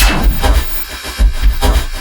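Industrial experimental electronic music: heavy pulsing sub-bass hits under a harsh noise texture, with a bright noise sweep falling in pitch at the start.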